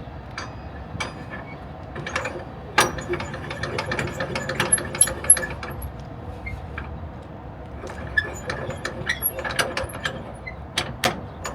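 Irregular metallic clicks, clanks and ratcheting from flatbed cargo-securement gear (strap winches and their ratchets) being worked by hand.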